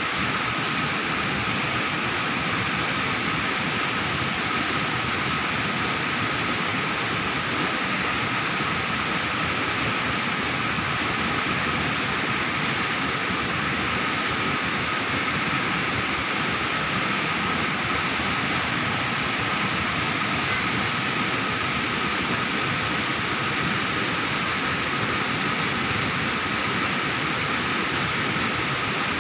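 Waterfall pouring, a steady, even rush of falling water that does not change.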